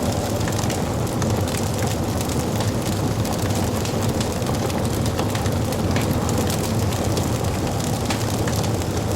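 Wood fire burning in a fireplace: a steady low rush of flames with many small sharp crackles and pops scattered throughout.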